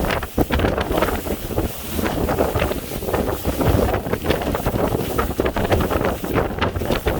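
Strong sea wind buffeting the microphone in irregular gusts, a loud, rumbling rush.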